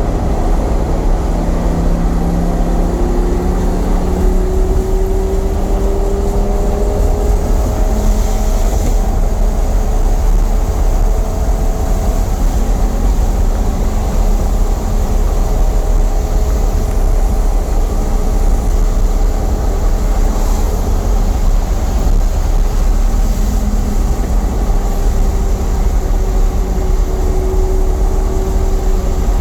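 Lamborghini Gallardo Superleggera's V10 engine running at speed in a tunnel, a steady loud drone whose pitch climbs gently over the first few seconds and then holds. A heavy low rumble of road and wind noise runs underneath.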